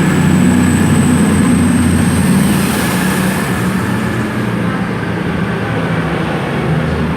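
Underfloor diesel engines of a pair of Class 221 Super Voyager units pulling out of the station, a steady low engine note with a faint high whine above it, easing off slightly after a couple of seconds as the train moves away.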